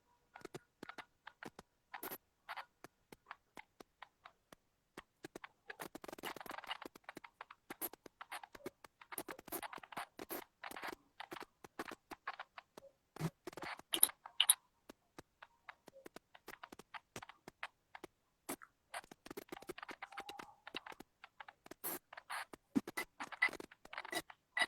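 Irregular small clicks and taps with short spells of rustling and scraping, a few sharper taps standing out about two-thirds of the way through.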